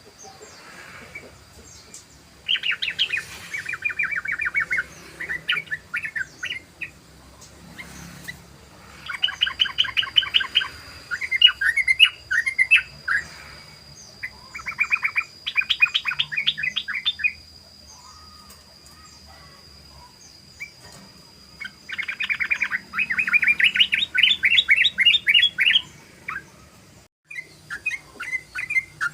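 Yellow-vented bulbul (trucukan) singing in 'ropel' style: long rolling bursts of very fast repeated chattering notes, several seconds each, broken by short pauses and brief phrases.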